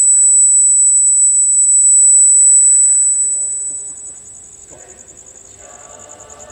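Cricket trilling close by: a loud, steady, high-pitched pulsing trill that drops sharply in level about four seconds in, with faint voices behind it near the end.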